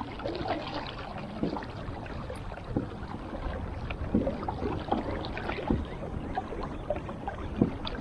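Water splashing and lapping against the hull of a pedal-drive kayak under way, with a steady low rumble and scattered small irregular knocks and splashes.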